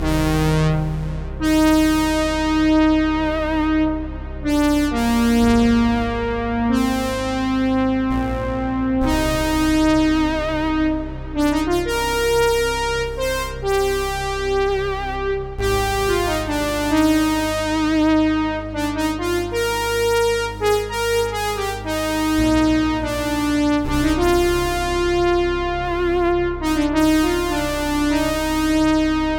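Roland Jupiter-Xm synthesizer playing a split patch ('DKS Blade Split'): a held bass note that changes every few seconds under bright chords and a melody whose notes strike sharply and fade. It starts abruptly out of silence.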